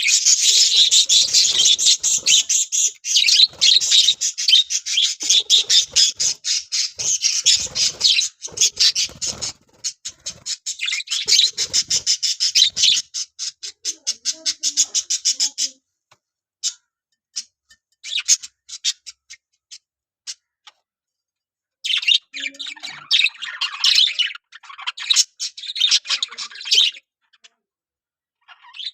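Parrots squawking in a fast, harsh run of high-pitched calls. The calling thins to scattered calls after about sixteen seconds, picks up again around twenty-two seconds, then dies away near the end.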